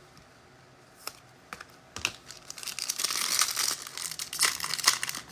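Trading cards and a foil pack wrapper being handled: a few light clicks, then crinkling and rustling from about two seconds in.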